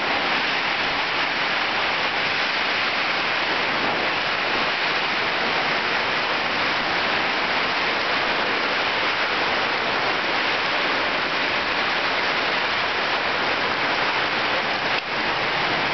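Heavy rain pouring down in a steady, even hiss that neither builds nor fades.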